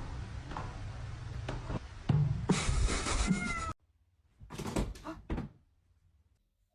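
A cat meows once, briefly, about three seconds in, among several sharp knocks. The sound cuts off suddenly, followed by a short burst of sounds a second later.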